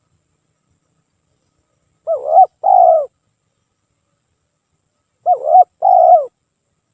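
Spotted dove cooing: two phrases about three seconds apart, each a short note followed by a longer, drawn-out coo.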